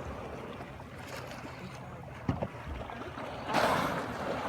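Water lapping around the boats with wind on the microphone, a sharp knock a little past two seconds in, and a short loud rushing burst at about three and a half seconds.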